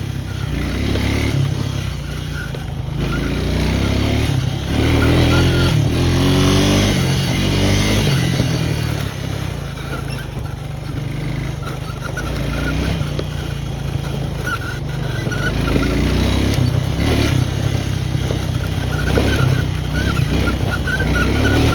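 Four-wheeler (ATV) engine running as it is ridden, revving up and down with the throttle.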